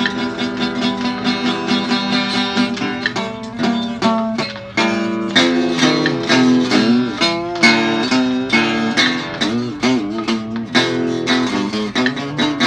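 Guitar music: a steady run of plucked notes, with several notes bending in pitch.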